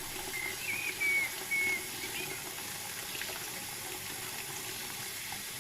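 Steady rush of running water, with a few short high whistles about half a second to two seconds in.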